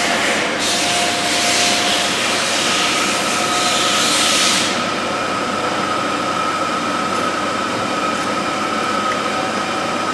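LarsLap Model C1 valve grinder running steadily, grinding the gasket seat face inside a safety valve's bore, with a steady high hum. A hiss over the first part stops about four and a half seconds in.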